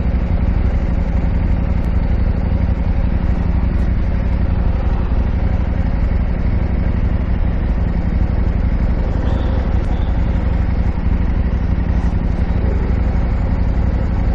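KTM 890 Adventure R's parallel-twin engine running steadily, with no rise or fall in revs.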